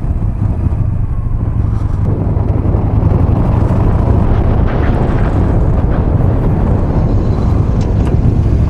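Yamaha XV950R's air-cooled V-twin engine running while the motorcycle is ridden at road speed, mixed with wind and road noise: a steady low drone that gets a little louder about three seconds in.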